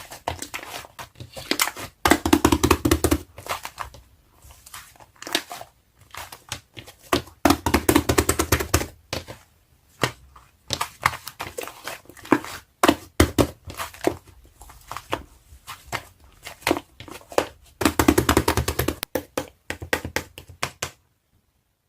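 Slime being squeezed, pressed and stretched by hand, giving a run of sharp popping clicks broken by three longer wet crackling squishes. It stops about a second before the end.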